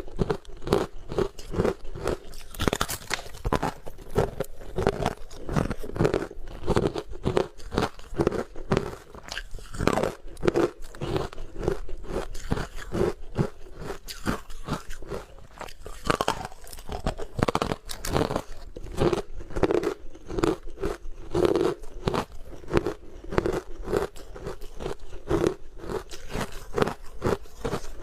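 Hard frozen matcha ice being bitten and chewed close to the microphone: a rapid, continuous run of loud, sharp crunches, several a second.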